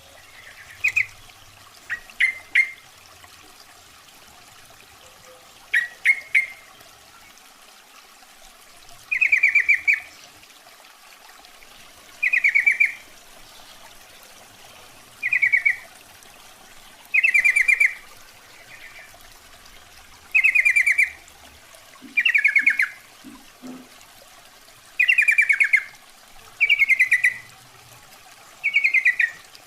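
Female yellow-vented bulbul calling: short chattering calls of about half a second to a second, repeated every two to three seconds, used as a lure call to draw males. A faint steady hiss lies under the calls.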